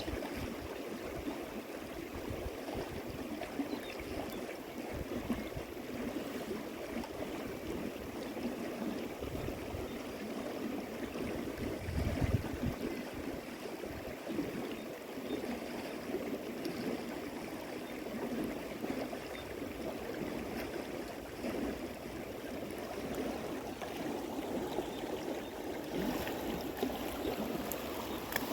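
River water flowing steadily, an even rushing, with a brief low thump about midway.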